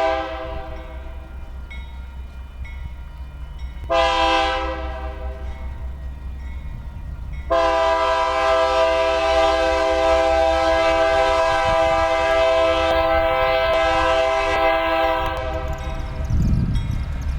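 Union Pacific GE AC4400 diesel locomotive sounding its multi-chime air horn as it approaches. A loud blast comes about four seconds in, then a long loud blast is held for about eight seconds and cuts off. The low rumble of the locomotive rises near the end.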